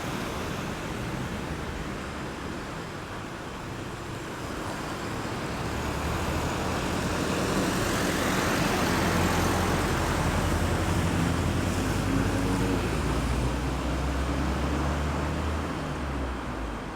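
Road traffic going by a roundabout: a steady rush of tyres and engines that swells as vehicles pass close. A low engine hum builds about a third of the way in and fades near the end.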